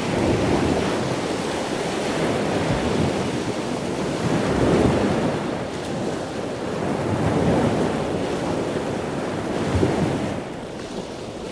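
Ocean surf washing onto the beach: a steady rush of breaking waves that swells and eases every few seconds.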